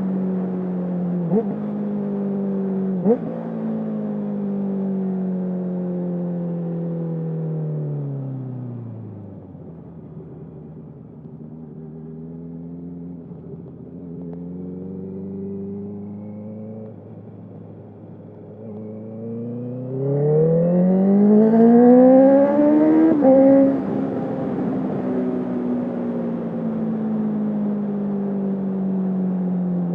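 2021 Honda CB650R's inline-four through a full Akrapovic exhaust with no dB killer, heard from the rider. Near the start the engine gives two short sharp blips, then its note falls as the bike slows and runs quieter and low for about ten seconds. About two-thirds of the way through it accelerates hard with a steeply rising note to its loudest, drops sharply in pitch at an upshift, and runs on with a slowly falling note.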